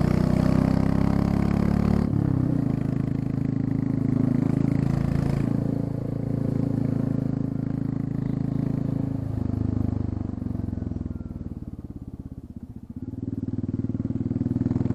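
Royal Enfield Classic 350's single-cylinder engine running with the exhaust muffler tip removed, so the exhaust is louder and more open. The engine note is steady for most of the time, drops away about three-quarters of the way through, then picks up again.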